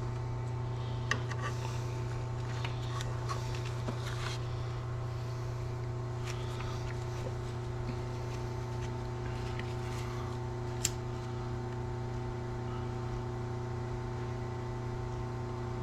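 Heat gun blowing steadily, a constant fan hum with a few light clicks and one sharp tick about eleven seconds in, as it warms the ends of fuel lines so they will slide over their fittings.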